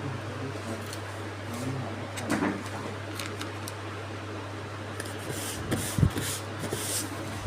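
Handling noises: a short rustle about two and a half seconds in and a run of rustles and light knocks near the end, over a steady low hum.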